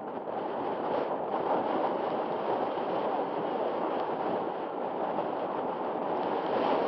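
Strong wind on the microphone, a steady rushing noise.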